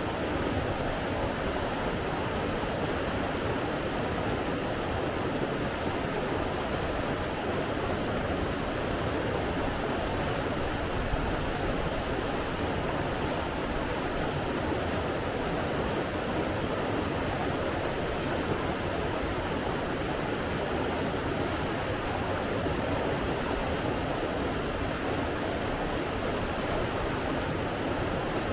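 Steady rushing water, an even continuous roar of flowing water with no surges or breaks.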